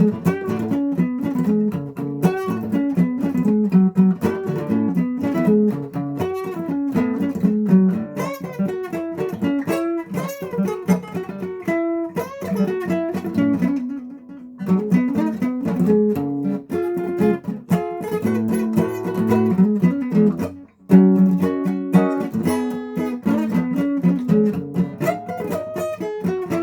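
Guitar played without singing: a steady run of picked notes and chords, with a short lull about halfway through and a brief break near the end before a loud strummed chord.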